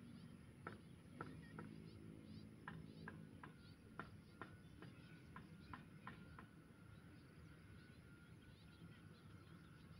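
Near silence with faint scattered bird chirps, short and irregular, over a soft low background hum.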